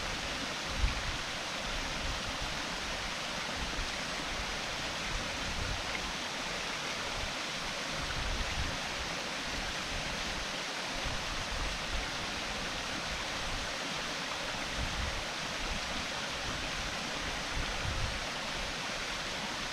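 Waterfall's falling water: a steady, even rush, with a brief low bump about a second in.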